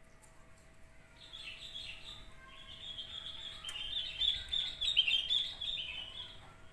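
Small birds chirping and twittering in a quick, busy run that starts about a second in and is loudest around the middle, dying away near the end.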